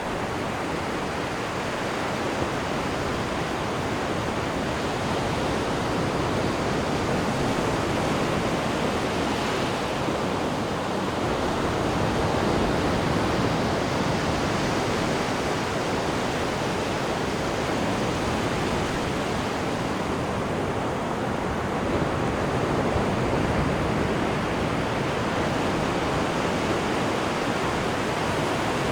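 Sea water rushing and churning in the wake behind a cruise ship's stern: a steady rush that swells and eases gently.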